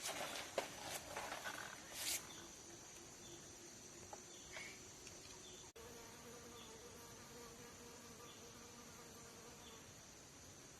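Faint steady buzzing and droning of forest insects, with a few rustles and clicks in the first couple of seconds. After a brief dropout about halfway, a lower steady buzz joins the high drone.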